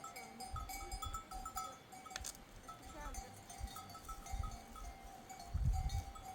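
A flock of sheep and goats with clinking bells and an occasional bleat, with low thumps near the end.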